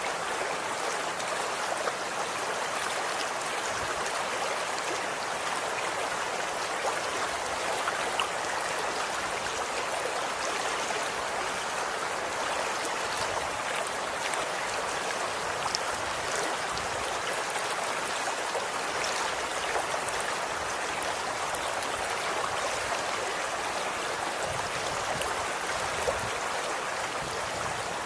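Running water of a stream flowing steadily, an even rushing with faint small splashes.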